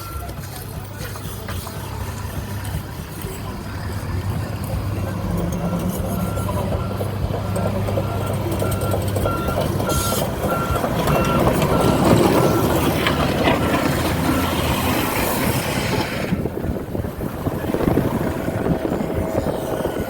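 Diesel engine of a heavy construction vehicle running, with its reversing alarm beeping at an even pace for about the first half, then stopping; rougher traffic-like noise follows.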